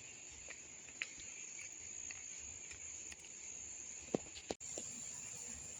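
An insect, cricket-like, giving a steady high-pitched trill, with a few faint clicks and knocks scattered through it.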